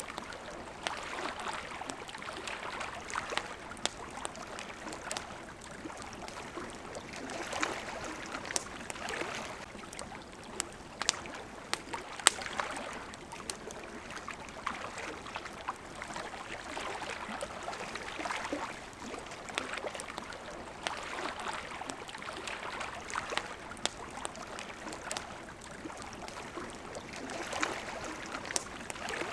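Water lapping at the shore in soft swells every few seconds, with the sharp pops and crackles of a campfire scattered over it.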